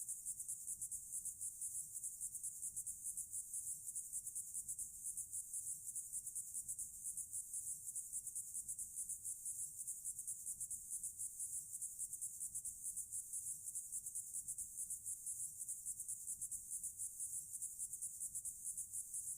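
Insects chirping: a faint, steady, high-pitched pulsing trill.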